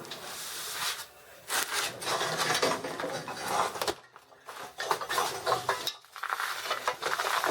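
A cut-off section of rusty exhaust pipe being handled and worked loose: irregular metal scraping and clinking, with a few short pauses.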